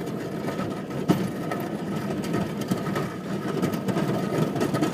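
Plow truck's engine idling steadily, with a single sharp knock about a second in.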